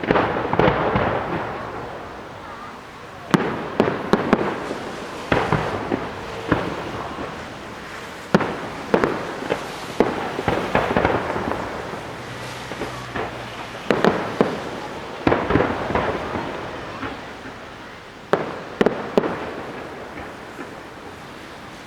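WECO display fireworks: aerial shells bursting with sharp bangs every one to two seconds, each followed by a spread of crackling that dies away.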